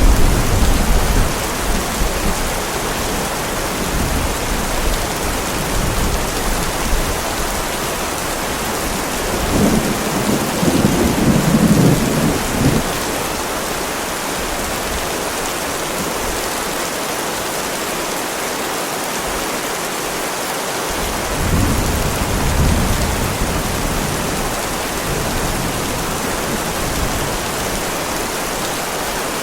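Heavy rain pouring steadily, with rolls of thunder rumbling in at the start, again about ten seconds in, and once more past the twenty-second mark.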